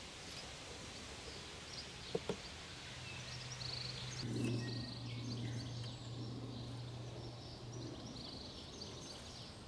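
Outdoor background of small birds chirping, with a low steady hum that swells in the middle and fades near the end, and two light clicks about two seconds in.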